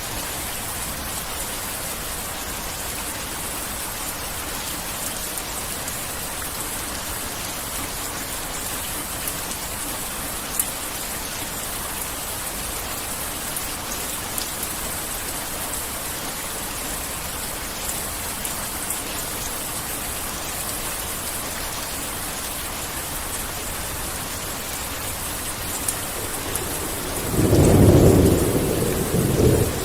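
Heavy rain falling steadily, with a few sharper single drops. Near the end, a loud thunderclap rumbles for about three seconds.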